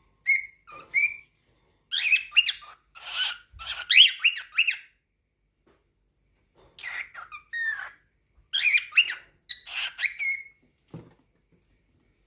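Cockatiel chattering in quick gliding chirps and squawky whistles: a few short calls, then two bouts of about three seconds each with a brief pause between. A short soft knock near the end.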